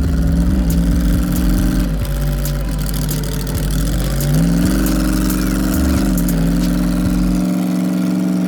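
Monster truck engine running and revving under load. Its pitch drops about two seconds in and climbs back up about four seconds in, then holds steady, with knocks and clicks over a heavy rumble.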